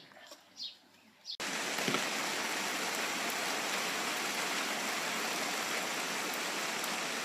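A bird gives short, repeated descending chirps, about one every two-thirds of a second. About a second and a half in, this cuts abruptly to heavy rain pouring down, a dense steady hiss.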